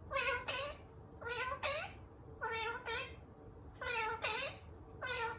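Indian ringneck parrot calling in a run of paired, two-note calls, about one pair every second and a bit, each note bending down in pitch at its end.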